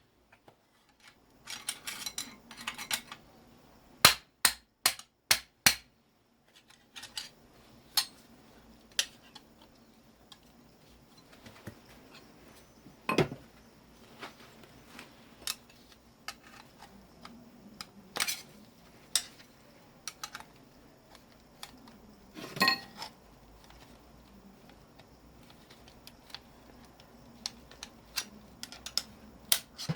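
Irregular metal knocks and clinks from hand tools working on a scrap electric motor, with a quick run of loud strikes in the first few seconds, then lighter scattered taps.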